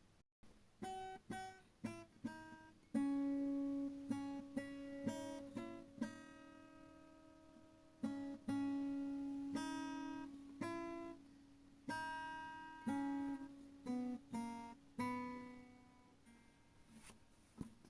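Background music: a solo acoustic guitar playing a slow piece of picked notes and chords, each note fading after it is plucked.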